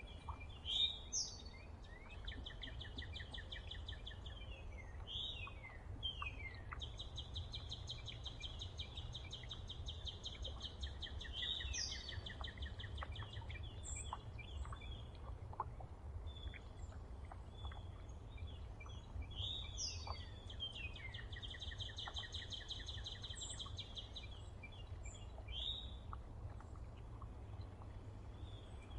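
Songbirds singing around a backyard feeder: repeated buzzy trills of a few seconds each and short falling whistled notes, over a steady low rumble.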